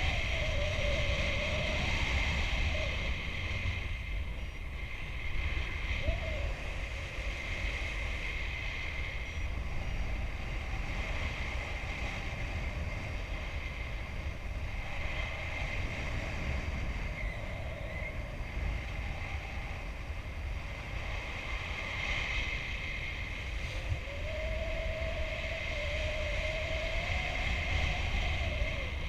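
Wind rushing over the microphone in paraglider flight: a steady rumbling hiss with gusty buffeting. A faint wavering whistle comes and goes, longest near the end.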